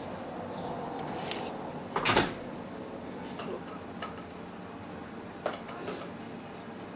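Scattered small knocks and clinks of objects being handled, with one louder clatter about two seconds in, over a steady room hum.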